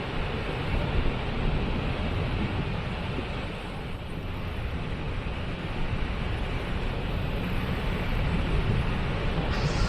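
Waterfall rushing: a steady, dense wash of falling water with a deep rumble underneath; the hiss turns brighter near the end.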